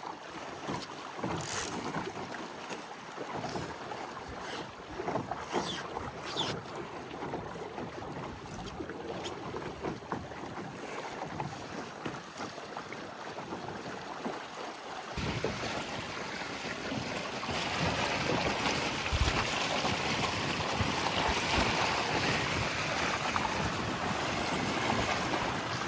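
Water lapping and splashing against the hull of a Laser sailing dinghy, with small scattered knocks. About halfway through, wind rushing over the microphone sets in suddenly and stays, louder than the water.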